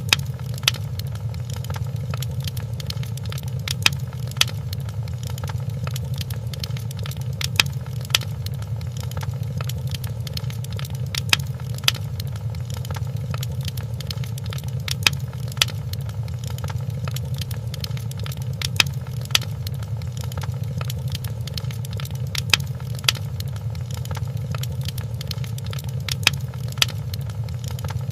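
Wood fire crackling in a fireplace: irregular sharp pops and snaps, the louder ones about every second or two, over a steady low rumble of the flames.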